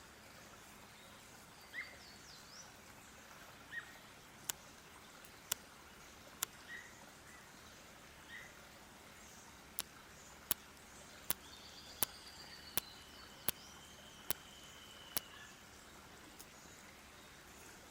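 Wild birds calling: short scattered chirps and a long, faint, slightly arching whistle in the second half. A run of about a dozen sharp clicks, roughly one every three-quarters of a second, is the loudest thing heard.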